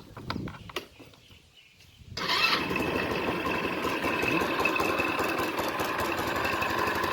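After a few faint clicks, a 125 cc scooter engine catches about two seconds in and keeps running steadily. It is the test start of a scooter that would not start, now firing after its defective ignition parts were replaced.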